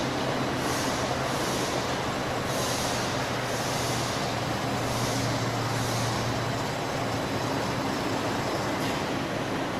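Glass tempering furnace line running: a steady machine hum and air-blower noise, with a high hiss that swells and fades roughly once a second.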